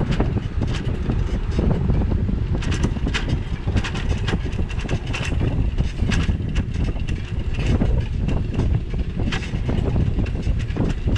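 Wind buffeting the microphone of a bicycle-mounted action camera while riding: a steady low rumble, with irregular clicks and rattles scattered through it.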